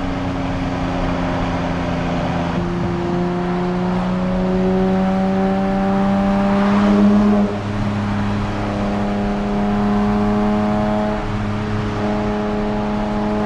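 Nissan Z Nismo's twin-turbo V6 through its Nismo Track exhaust, accelerating under load. The pitch climbs steadily, drops sharply at an upshift about halfway through, then climbs again.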